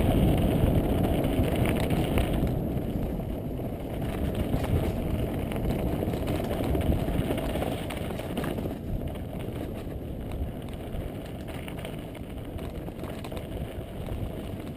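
Wind buffeting the microphone over the rumble of a mountain bike rolling along a dirt singletrack trail, a rough low noise that eases gradually.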